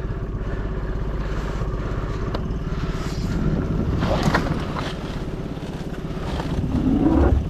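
A boat's outboard motor running steadily at low speed, with an even pulsing chug. A brief rising whine comes near the end.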